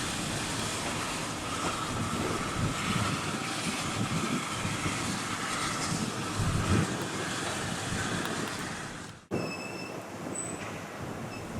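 Railway train running along the line, with a steady wheel squeal for a few seconds. The sound cuts off abruptly near the end, giving way to quieter background with a few brief high tones.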